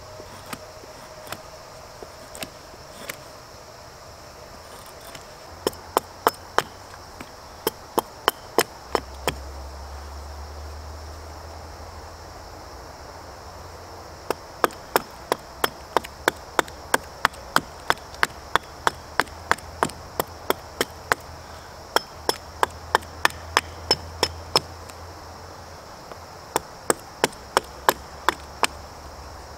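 Runs of sharp wooden taps, about two a second with pauses between them, from tools striking into a basswood carving block. Insects chirr steadily underneath.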